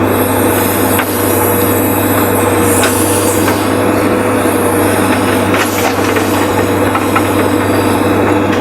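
JCB 3DX backhoe loader's diesel engine running steadily under digging load, with a steady whine over the low engine note and a few faint clicks.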